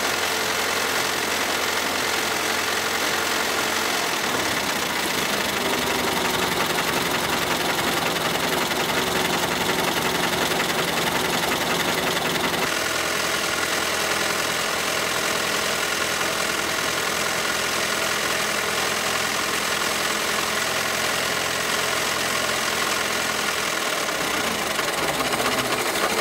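Ford Model T four-cylinder engine idling steadily, with the sound changing abruptly about halfway through.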